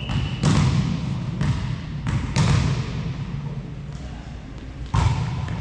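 A volleyball thudding on a sports-hall floor, struck or bounced a few times in the first two or three seconds and once more near the end, each thud echoing in the hall.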